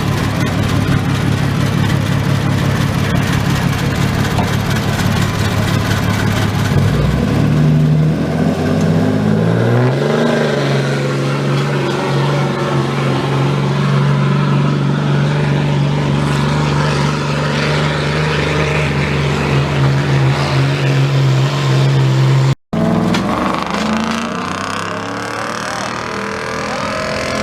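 Competition pulling truck's engine working under load: the revs climb about seven to ten seconds in and then hold at a high, steady note. Near the end the sound breaks off abruptly and comes back different.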